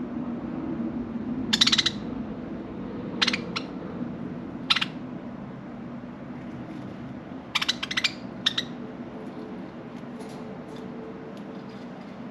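Budgerigars giving short, sharp chirps in scattered bursts, a quick cluster of several near the middle and fainter ones after, over a steady low hum.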